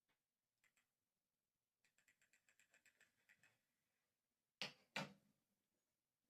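Typewriter mechanism being worked by hand: a fast, even run of about a dozen ringing, ratchet-like clicks, then two sharp, loud clacks about half a second apart.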